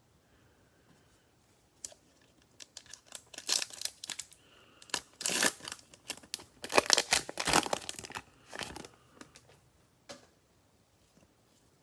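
Cellophane wrapper of a Mosaic football card cello pack being torn open and crinkled. A stretch of crackling begins a couple of seconds in and dies away with a few last clicks near the end.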